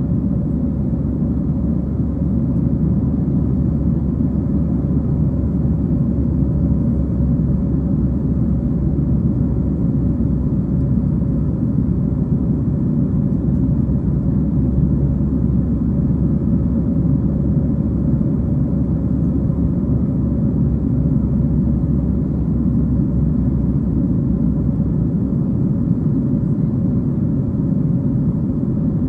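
Steady low rumble of airflow and CFM56-7 turbofan engines inside the cabin of a Boeing 737-700 in flight, with a faint steady hum over it.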